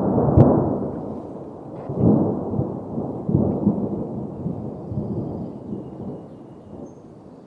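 Thunder: a loud clap just after the start, then a long rolling rumble that swells again about two and three and a half seconds in and slowly dies away.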